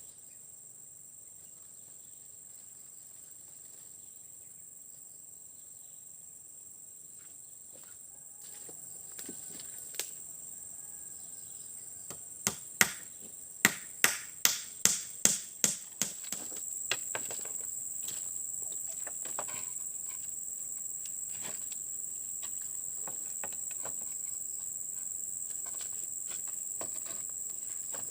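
Crickets chirring steadily and high-pitched in forest undergrowth. Around the middle comes a quick run of about nine sharp knocks, like chopping or hammering on wood.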